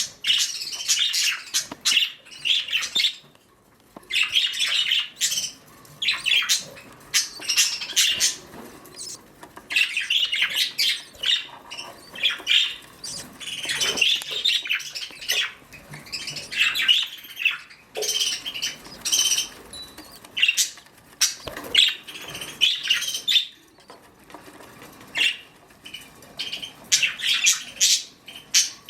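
Budgerigars chirping and chattering in quick bursts of high notes, broken by short pauses.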